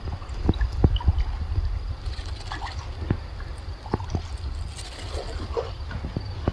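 Water sloshing and dripping around a kayak paddle, in many small irregular splashes and drips, over a low rumble of wind on the microphone.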